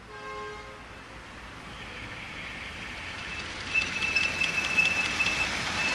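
Miniature railway train approaching, its running noise growing steadily louder. A brief horn sounds right at the start. From about four seconds in, a steady high wheel squeal comes in, with regular clicks from the rail joints.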